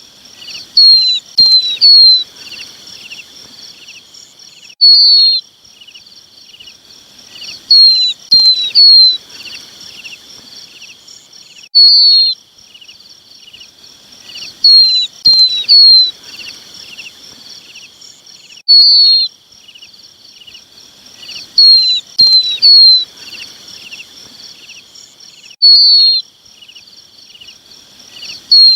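Lapwing chicks calling to their parents: loud, short, high calls that slide downward, in an evenly repeating pattern of a single call, then a quick run of three, every few seconds. A steady high chirping runs underneath.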